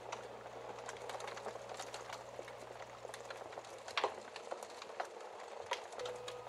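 Wood fire crackling: a steady hiss dotted with small sharp pops, with a few louder snaps about four seconds in.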